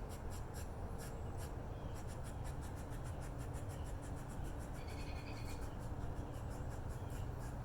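Small birds calling: rapid, high, sharp chip notes run through, and a short call with two pitch bands comes about five seconds in, over a steady low background rumble.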